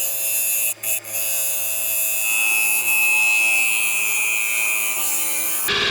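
Wood lathe running steadily, its motor humming under a bright hiss of a tool cutting the spinning poplar blank. The sound dips briefly twice about a second in and changes abruptly near the end.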